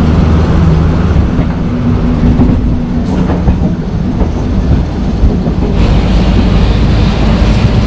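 MEMU electric passenger train running on the rails: a steady low rumble and hum, with scattered clicks from the wheels.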